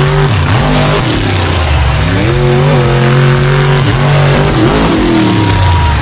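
Monster truck engines revving loudly, their pitch rising and falling several times.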